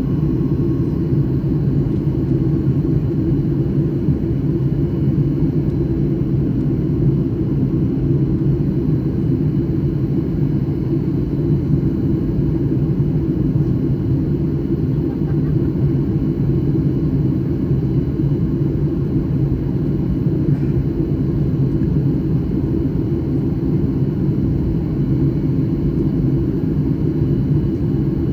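Boeing 737 MAX 9 airliner on its landing approach: a steady, deep jet rumble that holds an even level throughout.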